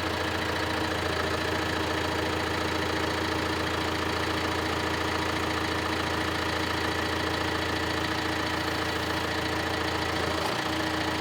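John Deere 6125R tractor's diesel engine idling steadily.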